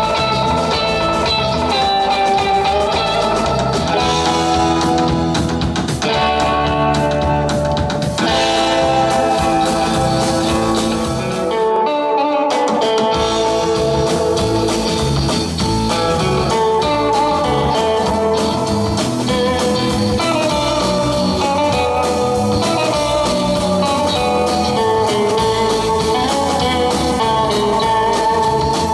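Live rock 'n' roll band playing an instrumental passage: electric guitar over bass and drums, with the bass and drums dropping out briefly about twelve seconds in.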